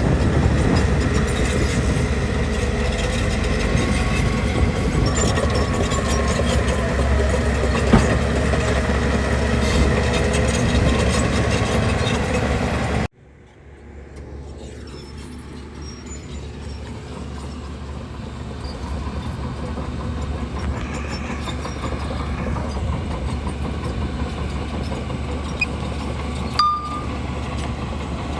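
Bulldozer's heavy diesel engine running loud and steady, with a single sharp knock about eight seconds in. Roughly halfway through the sound cuts off abruptly, then comes back much quieter and slowly grows louder.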